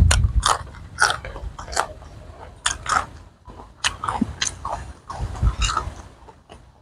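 Close-up crunchy biting and chewing of raw green vegetables: a string of crisp, irregular crunches, roughly one or two a second, with a few dull low thumps about five seconds in.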